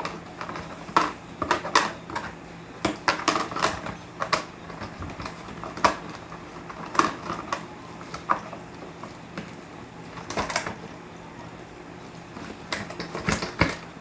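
Irregular clicks and knocks of a cheap, very light plastic robot vacuum being handled and its parts moved.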